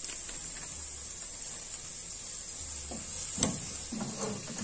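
Diced onion and kale stems sizzling softly as they sauté in margarine in a pan, a steady hiss. A sharp click comes about three and a half seconds in, with a few light knocks around it.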